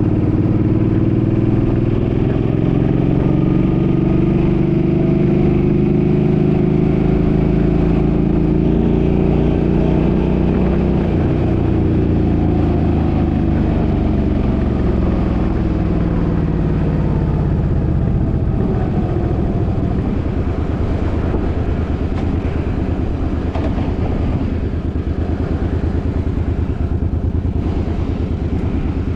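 Suzuki's engine under way, its pitch climbing gently for about ten seconds, then falling away over the next several as it slows. After that the engine tone fades into a steady rush of road and wind noise.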